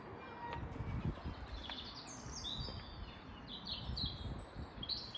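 A songbird singing short phrases of high, falling notes, a few times from about two seconds in, over faint outdoor background noise.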